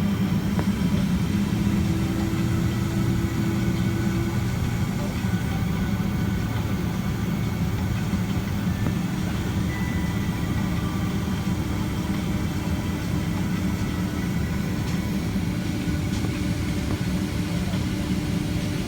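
Steady cabin noise inside a Boeing 767-300ER at low thrust on the ground: a deep engine hum with faint steady whining tones above it.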